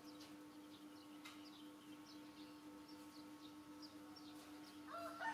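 Birds chirping faintly, short falling high chirps about twice a second, over a steady low hum. Near the end a rooster starts to crow, much louder.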